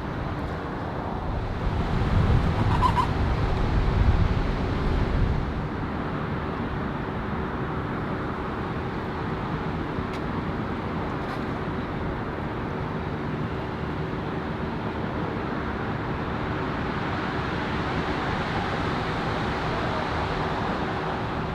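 Steady outdoor ambience of vehicle and engine hum, with a louder low rumble between about two and five seconds in and a short bird chirp about three seconds in.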